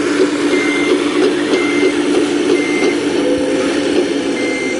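Heavy-equipment backup alarm beeping about once a second, four beeps, over a diesel engine running steadily.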